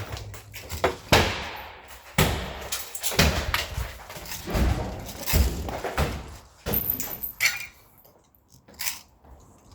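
Irregular knocks and bangs, one after another, thinning out and growing quieter over the last two or three seconds.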